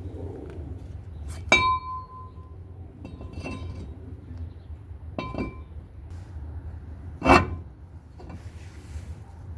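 Metal-on-metal clinks as a brake rotor and its hardware are handled and fitted to the hub: four separate strikes, two of which ring on briefly with a bell-like tone, the loudest a short knock about seven seconds in.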